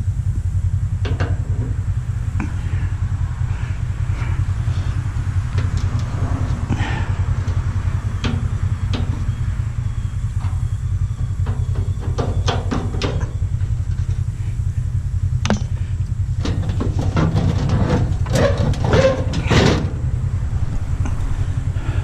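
A steady low hum runs throughout, with scattered clicks and clatter of small metal parts being handled, busiest in the second half.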